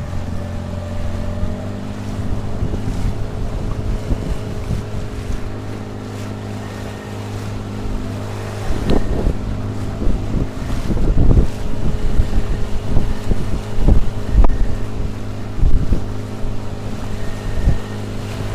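Tohatsu 9.8 outboard motor running steadily under way on an inflatable boat, its note stepping up slightly about a second and a half in. Through the second half, loud irregular thumps and buffeting sit over the engine.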